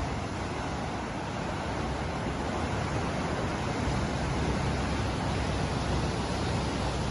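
Ocean surf: a steady wash of breaking waves that swells slightly about halfway through.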